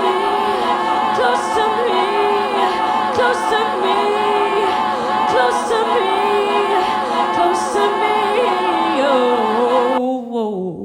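Live singing by several voices together, with no clear instrument under them. About ten seconds in the pitch slides down and the singing fades away.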